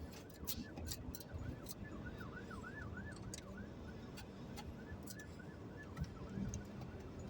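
Faint emergency-vehicle siren in a fast yelp, its pitch sweeping up and down about four times a second, over a low rumble with scattered sharp clicks.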